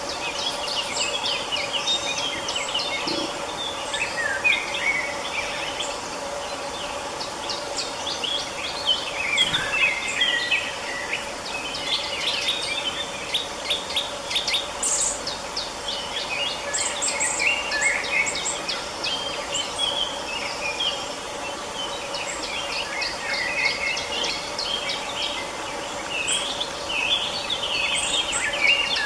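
Several birds singing and calling at once, a busy mix of chirps, trills and quick repeated notes, over a faint steady hum.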